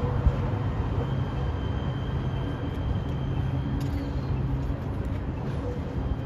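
Metro Rail train running, a steady rumble with a faint, steady high-pitched whine above it.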